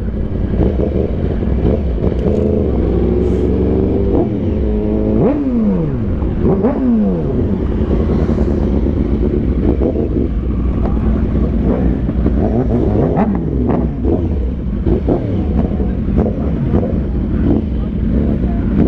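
Sport motorcycle engines running in a group ride. The engine note steps through gears in the first few seconds, then drops sharply twice around six seconds in, with steady engine and road rumble after that.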